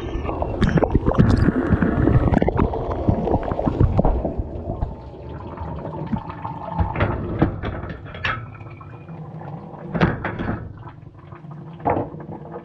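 Water spraying and splashing inside a running dishwasher, heard from a camera inside the machine. It is heavy and dense for the first four seconds or so, then lighter, with scattered splashes and knocks.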